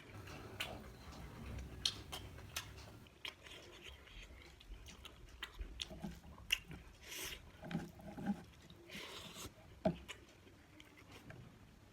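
A person chewing and biting food close to the microphone, in an eating show of fish and raw vegetables: a string of short, irregular mouth clicks with a few longer, noisier chews.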